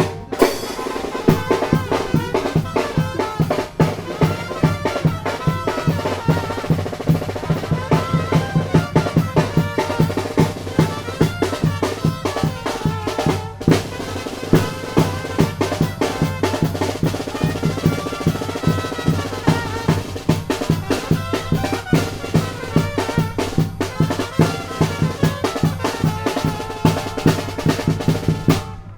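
A Zacatecan tamborazo band playing: bass drum and snare drum keep a fast, steady beat while the brass and saxophones carry the tune over it.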